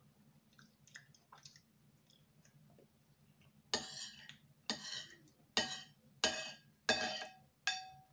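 Eating utensil clinking against a dish six times in quick succession over the second half, each strike ringing briefly, after a few faint clicks.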